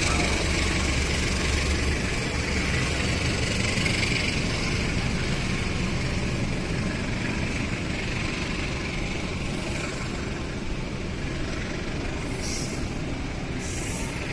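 A train running through the station with a steady rumble of wheels and engine. It slowly dies away, with a few short hisses near the end.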